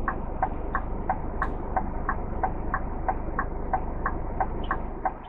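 Flasher relay in a lorry cab ticking steadily, about three ticks a second, over the low hum of the idling engine. The engine hum drops away near the end.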